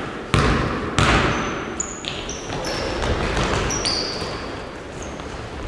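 Basketballs bouncing on a court, with two loud thuds in the first second, followed by a run of short, high squeaks of shoes on the court floor.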